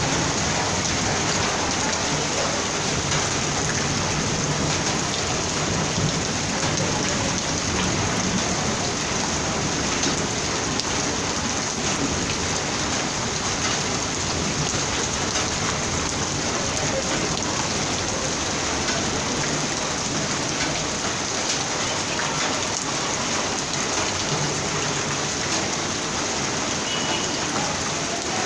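Heavy rain falling steadily and drumming on surfaces, a dense, even hiss that keeps the same level throughout.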